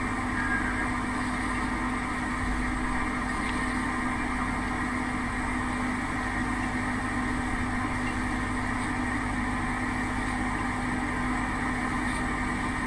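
A steady mechanical hum with several constant tones that holds level throughout.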